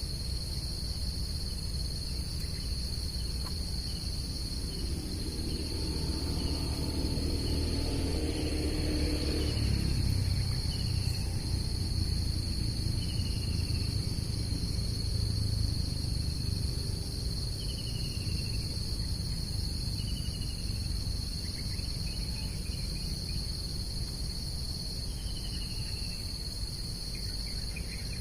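Steady, high-pitched chorus of insects such as crickets, with short falling bird chirps every few seconds. A low rumble swells in the middle and fades away.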